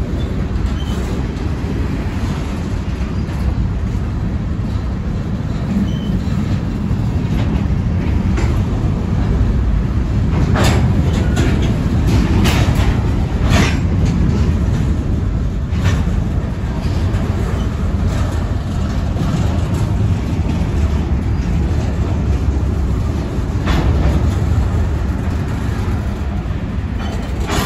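A train rolling past with a steady low rumble from its wheels on the rails and a few sharp clacks spread through the middle.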